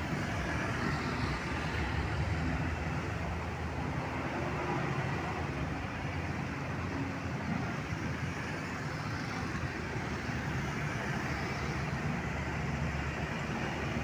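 Road traffic: heavy trucks and buses passing, a steady mix of low engine rumble and tyre noise.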